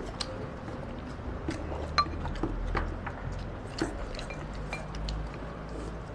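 Chopsticks and rice bowls clinking during a meal: scattered light clicks, with one sharper clink about two seconds in that leaves a brief ring.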